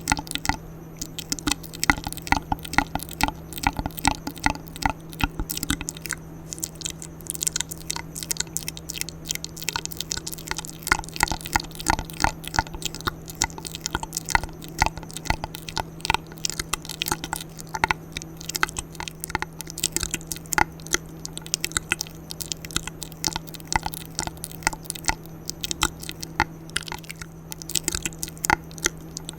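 ASMR mouth sounds: a quick, uneven run of wet clicks and smacks close to the microphone.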